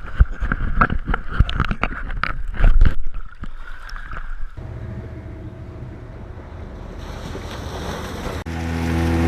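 Kayak paddling at sea: a quick run of splashes and knocks of paddle on water and hull, with wind on the microphone. About four and a half seconds in the sound cuts to a steady motor hum, which grows louder near the end.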